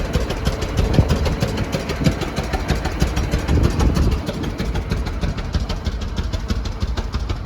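An old engine running steadily with a rapid, even beat.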